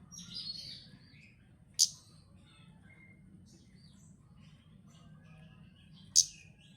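A male bird calling: a short buzzy chatter at the start, then two sharp, loud chirps, one about two seconds in and one near the end, with faint softer calls between them.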